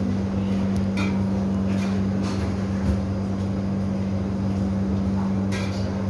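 A steady low machine hum, even in pitch throughout, with a few light knocks.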